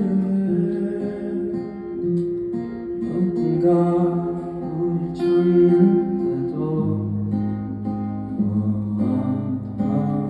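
Live band music led by guitar, with sustained chords; a deep bass note comes in about seven seconds in.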